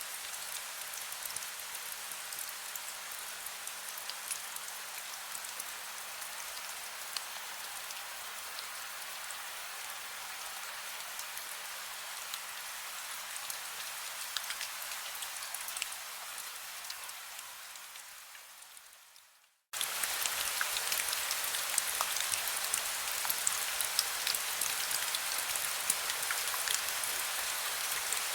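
Heavy rain falling steadily, with scattered sharp drop impacts through the hiss. About two-thirds of the way in it fades away to silence, then cuts back in abruptly, a little louder.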